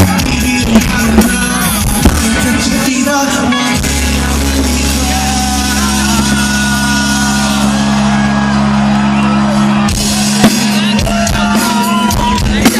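Live reggae-rock band playing loud, with a sung melody over a sustained bass line and drum hits.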